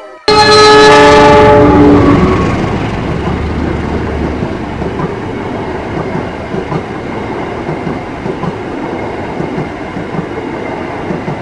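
KAI diesel locomotive sounding its horn at close range, a loud chord of several steady tones lasting about two seconds, then the train's carriages rolling past with wheels clacking over the rail joints.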